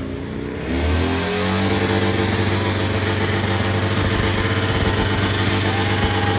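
Motorcycle engine held at high revs during a burnout: the revs dip at the start, climb about a second in, then hold steady over a constant hiss from the spinning rear tyre. A thin high whine joins near the end.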